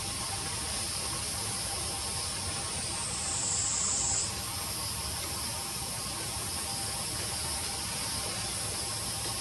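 Steady high-pitched insect chorus hiss, with one louder, higher buzz that swells about three seconds in and cuts off suddenly a second or so later.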